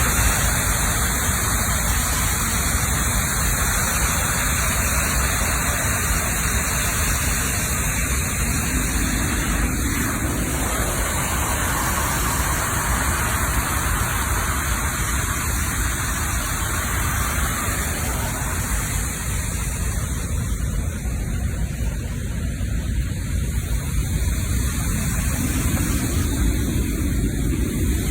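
Steady rush of water pouring over a reservoir spill, a loud, even noise that hardly changes.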